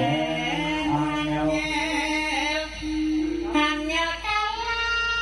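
Female singer (sinden) singing a sliding, ornamented melody with gamelan accompaniment and a held low tone beneath.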